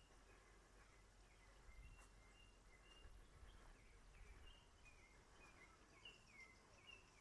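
Faint bird calls: a string of short whistled notes, coming more often in the second half, over a quiet outdoor background.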